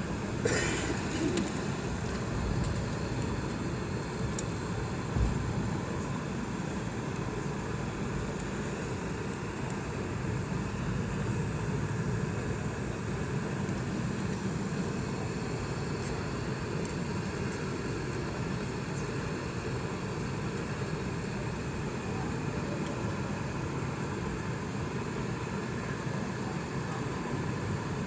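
Steady engine and airflow noise inside the cabin of a Boeing 717 airliner, from its rear-mounted Rolls-Royce BR715 turbofans. There is a brief rattle about half a second in and a thump about five seconds in.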